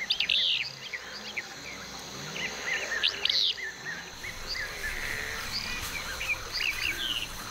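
Many short bird chirps over a steady high drone of insects.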